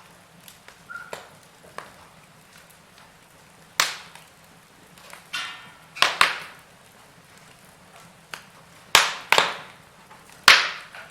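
Wood fire in a fireplace crackling: irregular sharp pops and snaps of burning logs, several of them loud, the loudest near the end, over a faint steady hiss.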